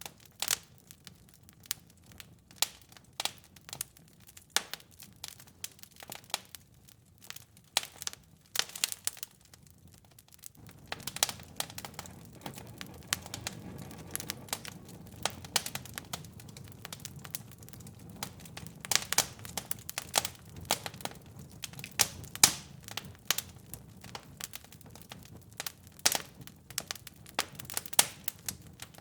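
Wood fire in a fireplace crackling, with irregular sharp pops and snaps throughout. About ten seconds in, a low steady rumble of the flames comes in underneath the pops.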